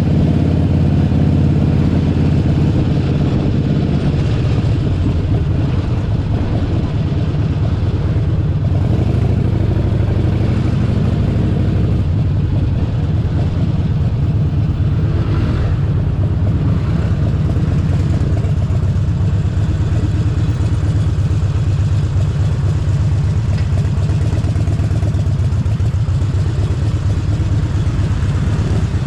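Harley-Davidson Forty-Eight Sportster 1200's air-cooled V-twin engine running steadily, easing off slightly about four seconds in.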